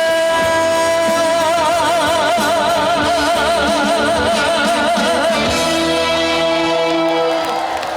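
Live trot song ending: a male singer holds the last note with wide vibrato for about five seconds over the backing music. The accompaniment then sustains a final chord and thins out near the end.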